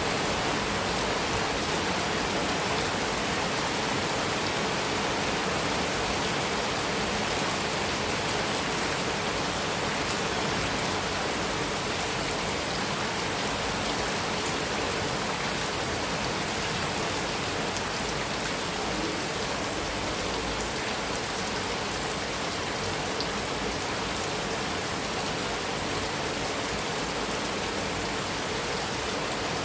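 Heavy rain falling steadily on a metal roof, an even rushing patter with fine drop ticks.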